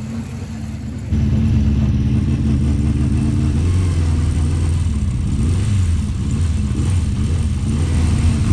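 Honda CB400F's air-cooled inline four-cylinder engine running under way, getting suddenly louder about a second in, its speed rising and falling. It is running a little lumpy, not firing cleanly on all four cylinders, probably from a fouled spark plug.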